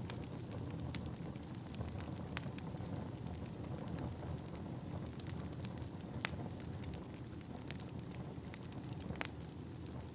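Wood fire burning in a fireplace: a steady low rumble of flames with irregular sharp crackles and pops of burning wood, a few louder pops standing out.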